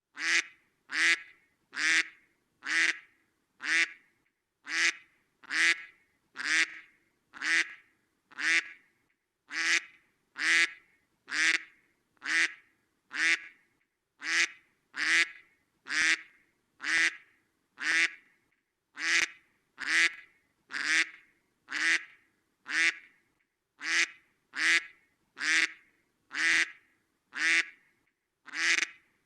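Duck quacking over and over in short, evenly spaced quacks, about one a second.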